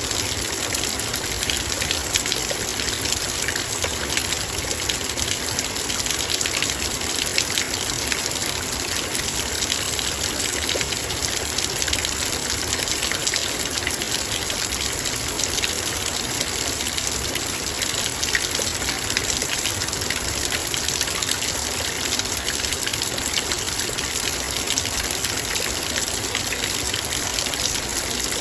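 Heavy rain falling steadily, raindrops pattering densely on a metal bowl with a constant rush of rainfall behind.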